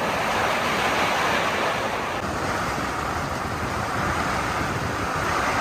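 Steady rushing noise of strong typhoon wind and rain, with no breaks.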